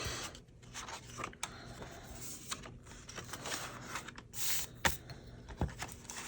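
Paper rustling and scraping as a small paper piece is handled and slid into a paper journal pocket, with a few light taps and clicks.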